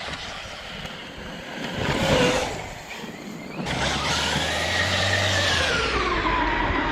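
Electric RC truck motor whining as the truck drives past, loudest about two seconds in. Just past the middle the sound changes abruptly to a steady motor whine that rises and then falls in pitch.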